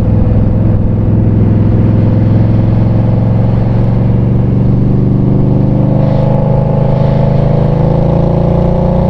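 2020 Indian Scout Bobber Twenty's 1133 cc liquid-cooled V-twin running steadily under way, its pitch climbing slowly in the second half as the bike gathers speed.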